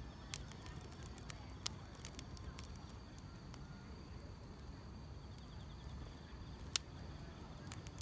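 Wood fire crackling, with irregular sharp pops (the loudest about seven seconds in) over a low rumble, and grass insects chirring faintly and steadily at a high pitch behind it.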